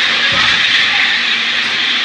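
N700-series Shinkansen bullet train moving slowly along the platform, with a steady hiss.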